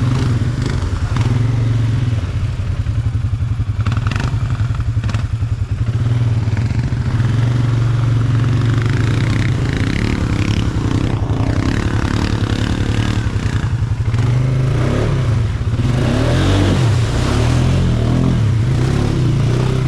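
ATV engine running close by, its pitch rising and falling as the throttle is worked, with some clattering.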